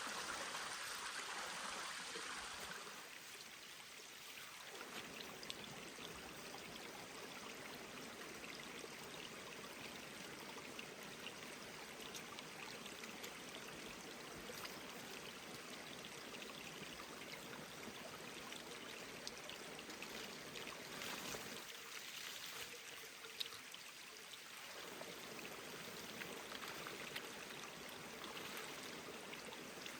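Mountain stream flowing: a steady rush of running water, with a few faint clicks over it.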